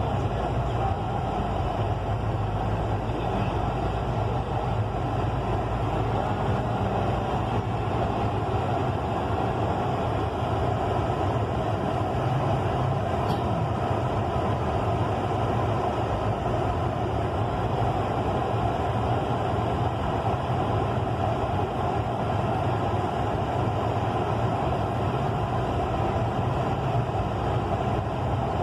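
A steady engine drone that holds an even pitch and level throughout.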